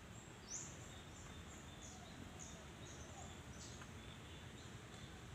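Faint, high, quick falling chirps repeating about twice a second, typical of small birds calling, over a low steady background rumble.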